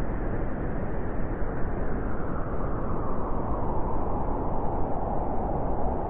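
Winter wind blowing steadily, a low, even rushing noise with no gusts or clicks standing out.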